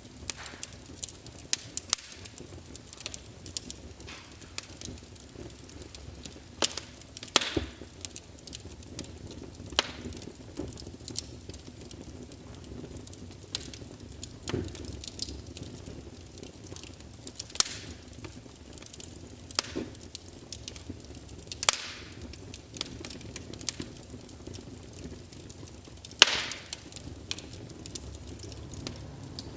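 Wood fire crackling, with a low steady hiss under irregular sharp pops and snaps; the biggest pops come about 7, 17 and 26 seconds in.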